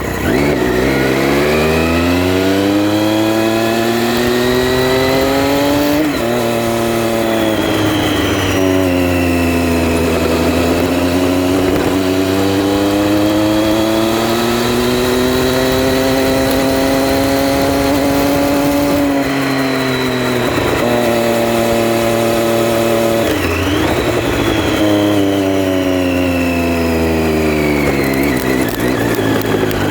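Triumph Street Triple R's 675 cc three-cylinder engine pulling through the gears while riding. The pitch climbs and drops sharply at each shift, about 6 s in and again around 20 and 23 seconds, holds a long steady cruise in the middle, and falls as the throttle comes off near the end.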